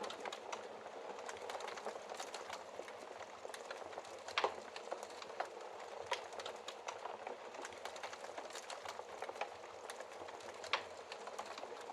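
Wood fire in a fireplace crackling: a steady hiss with frequent small snaps and pops, the loudest pop about four and a half seconds in and another sharp one near the end.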